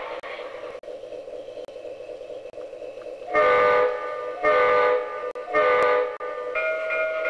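O-gauge model locomotive's onboard sound system blowing its multi-tone whistle as the train departs a station stop: three short blasts, then a long one starting near the end. Before that, about three seconds of quieter, steady train running noise.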